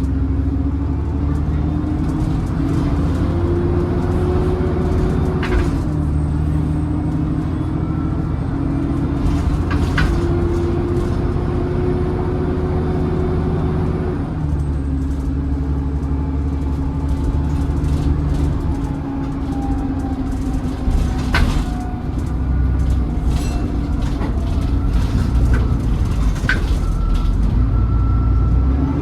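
Alexander Dennis Enviro400 double-decker bus accelerating hard. The engine and transmission whine climbs in pitch and drops back as it changes up, twice, with sharp rattles and clicks from the bodywork.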